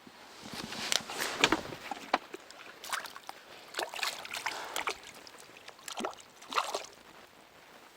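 Water splashing and sloshing in irregular bursts, the loudest at about one to two seconds in, with smaller splashes every second or so after.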